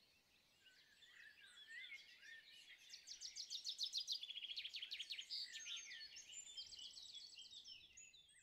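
Songbirds chirping and trilling, several overlapping calls with quick rattling trills, fading in about a second in and busiest around the middle.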